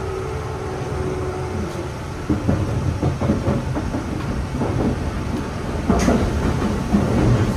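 Running sound of a Shizuoka Railway 1000 series electric train: a constant rumble of wheels on rail with irregular clacking over rail joints, and a sharp clank about six seconds in. A steady whine fades away in the first second.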